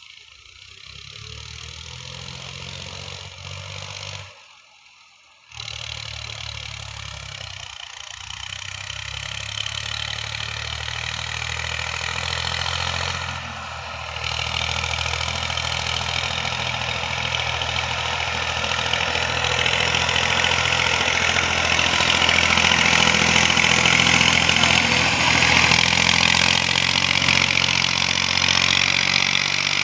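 Tractor diesel engine running hard under load, growing louder in the second half, with a brief break about four seconds in.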